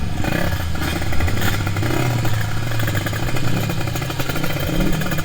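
Two-stroke single-cylinder engine of a Kawasaki Ninja 150RR running at low revs, its pitch wavering gently up and down.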